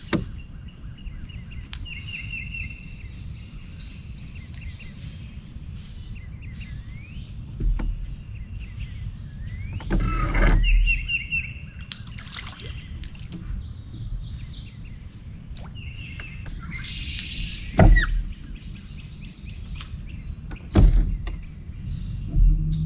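Birds calling in repeated short chirping phrases over a low steady rumble, broken by a few sharp thumps, the loudest about ten seconds in.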